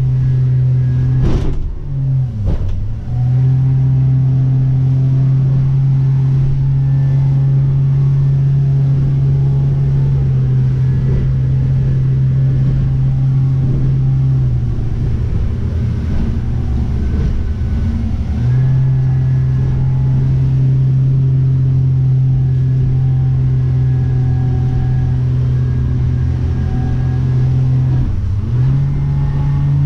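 Motorboat engine running under way at a steady pitch. Its note sags briefly with a few knocks about two seconds in, drops lower and rougher for a few seconds midway before picking back up, and dips once more near the end.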